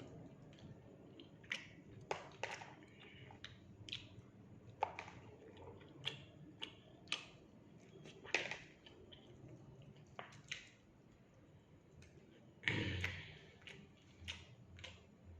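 Close-up eating sounds of a person eating fried rice with fried fish: irregular soft clicks and taps of mouth and utensil, with a louder, longer sound about thirteen seconds in.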